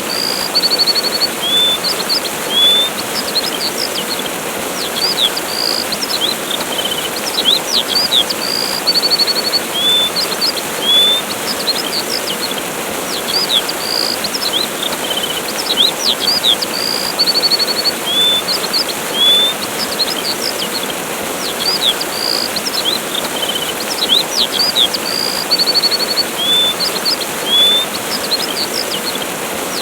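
Steady rushing of a waterfall with small birds chirping and trilling over it. The same short set of high chirps and trills repeats about every eight seconds, as in a looped recording.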